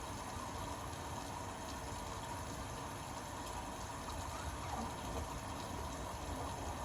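Indesit Innex BWE 91496X front-loading washing machine running with a steady rush of water and a faint steady hum.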